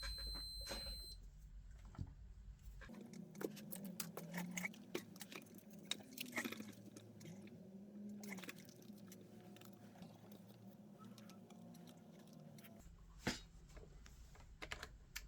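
Scattered small clicks, rattles and handling noises of bench work on a TV power supply board, with one sharp click about 13 seconds in.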